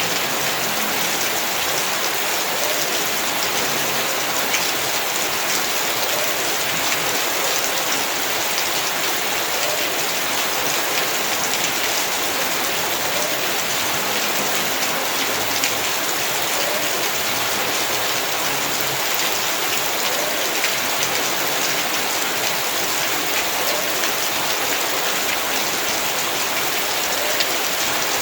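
Heavy rain falling steadily on surfaces in a yard, a dense even hiss full of fine drop patter.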